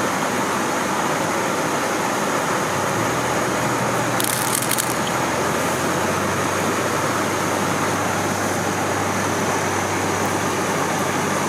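Steady rush of stream water below a waterfall, with a brief crackling crunch about four seconds in.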